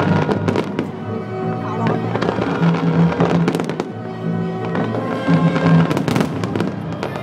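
Fireworks going off in a string of sharp bangs and crackles, with music playing along at the same time.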